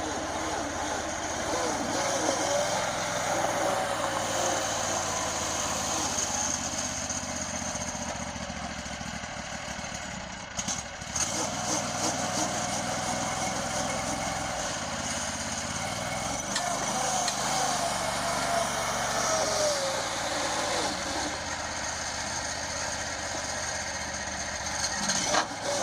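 Predator 670 V-twin small engine running steadily, its pitch wandering slightly.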